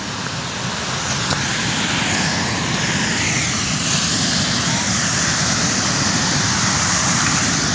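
Waterfall: a steady rush of falling water, growing a little louder over the first two seconds and then holding.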